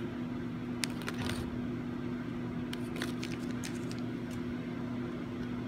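Steady low machine hum in the room, with a few faint clicks and taps from small parts being handled.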